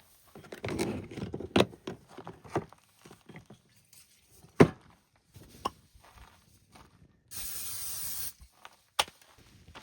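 Cooking gear being handled: a pan and utensils set down with scattered clicks and knocks, the sharpest about halfway through. Near the end comes a steady spray hiss lasting about a second.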